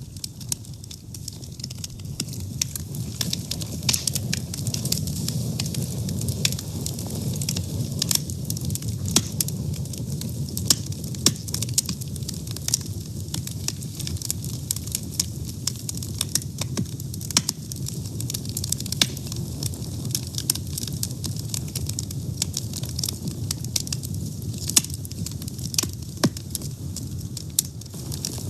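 Wood fire burning: a steady low rumble of flames with many sharp, irregular crackles and pops.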